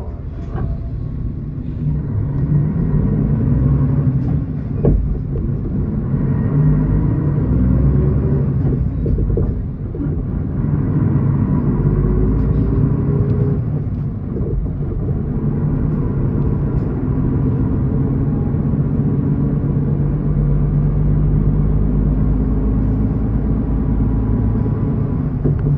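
A city route bus running, heard from inside the cabin: a steady low engine and drivetrain rumble whose note rises in pitch several times as the bus accelerates along the road.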